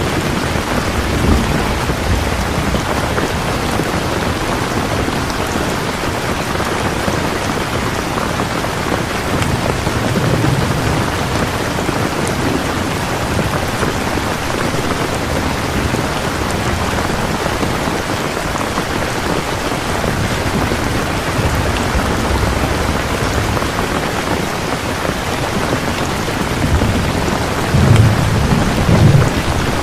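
Steady heavy rain, a dense even hiss, with low rumbles of thunder rolling in twice, the stronger one near the end.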